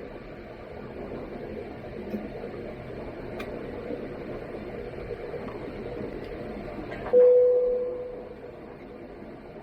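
Steady cabin noise inside an Airbus A330-200 airliner, from airflow and engines. About seven seconds in, a single chime tone sounds suddenly and fades away over about a second, like the cabin signal chime.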